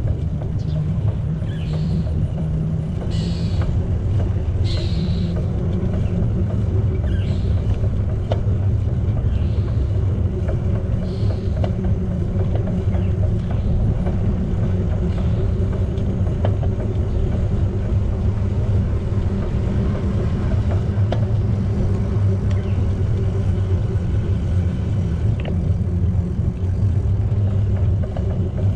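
Steady low rumble of a bicycle on the move, wind buffeting the camera microphone over the hum of the tyres. A few faint, short high chirps sound in the first few seconds.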